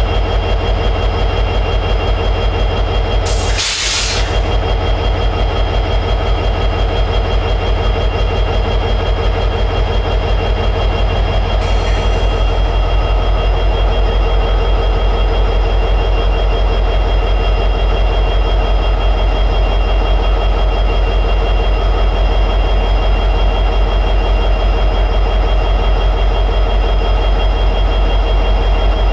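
EMD 710G3B two-stroke diesel prime mover of an SD60E locomotive running steadily in high idle, a deep even rumble with a constant pulse. Two short hisses cut in over it, the first a few seconds in and louder, the second about twelve seconds in.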